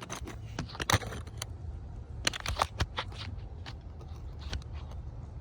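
Metal pick tool clicking and scraping against a plastic EVAP line quick-connector as its locking tabs are worked, in scattered sharp clicks over a low steady hum.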